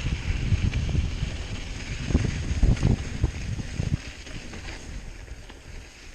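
Wind buffeting the microphone over the rumble and knocks of an aluminium hardtail mountain bike riding over a rough dirt trail. The knocks are strongest about two to three seconds in, and it gets quieter after about four seconds.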